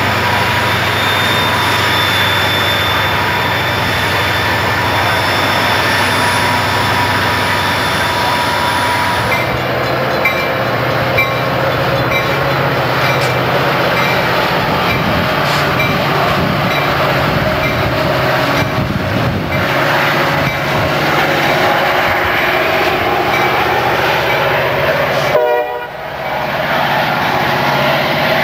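Passing trains: a Canadian Pacific diesel freight locomotive running by, then about nine seconds in a Metra commuter train's diesel locomotive and bilevel passenger cars rolling past, with a short ding repeating about once a second. Wheels clatter over the rail joints near the end.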